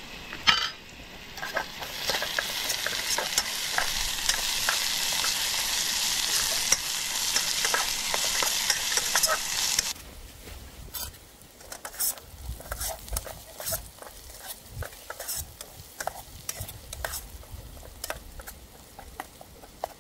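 Food frying and sizzling in a pot while it is stirred, the spoon clicking against the pot. About halfway through the loud sizzle cuts off suddenly, leaving scattered clicks and knocks.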